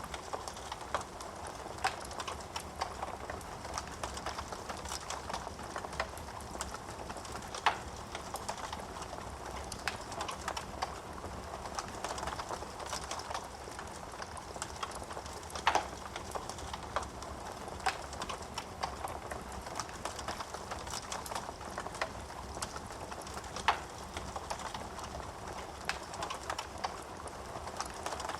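Wood fire in a fireplace crackling: a steady soft hiss and flutter of flames with frequent small irregular crackles and a few louder sharp pops.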